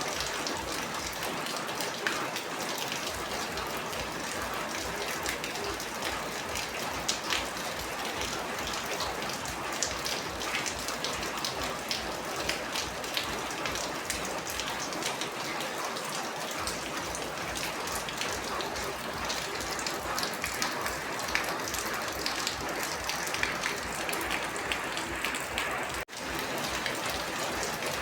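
Steady rain falling, a dense patter of individual drops over an even hiss. It cuts out for an instant near the end.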